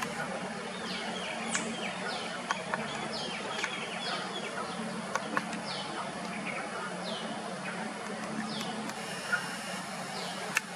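Small birds chirping: short, high notes that fall in pitch, repeated every second or so, over a steady background hiss and low hum, with a few sharp clicks.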